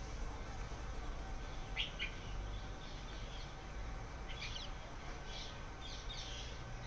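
Small birds chirping in short, scattered calls, a pair about two seconds in and a cluster in the last third, over a low steady rumble.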